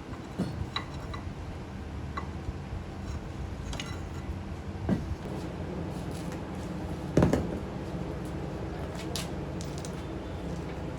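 A steady low mechanical hum with a few sharp knocks and clinks, the loudest about seven seconds in.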